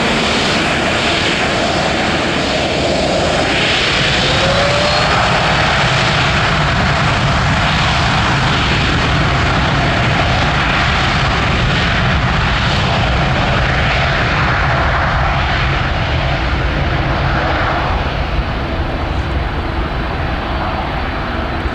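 Boeing 787-10 Dreamliner's jet engines: a loud, steady roar with slow swells, easing slightly near the end.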